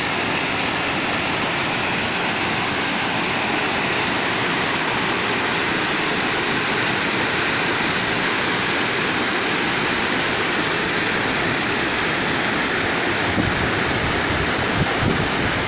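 Steady, even rush of flowing water, like a waterfall or fast stream, with wind buffeting the microphone near the end.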